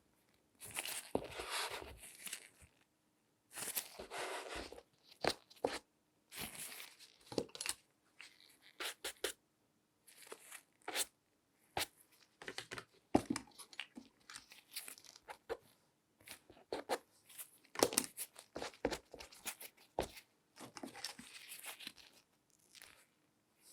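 Close-miked handling noises from gloved hands working objects: short bursts of rustling and scraping mixed with sharp taps and clicks, separated by brief silences.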